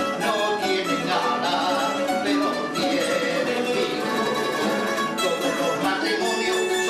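Plucked-string trio of bandurria, laúd and guitar playing a Cádiz carnival melody, with the bright tremolo-style notes of the bandurria on top.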